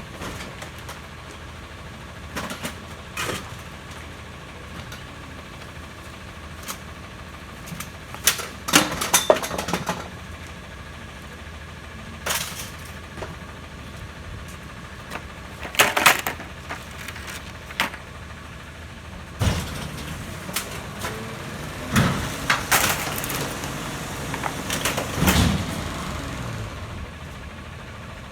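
Rear-loader garbage truck running steadily, with scattered bangs and clatters of bulky waste being loaded into the hopper, heavier in the second half.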